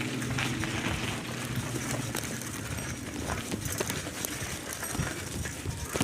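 Bicycle being ridden over the road, its frame and parts rattling and clicking irregularly, with a low steady hum through the first two seconds or so.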